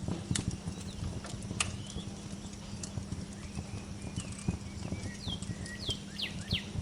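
Wood fire crackling in a fireplace, a dense run of small crackles with sharper pops now and then, over a low steady hum. Birds chirp through it with short calls that fall in pitch, several in a quick cluster near the end.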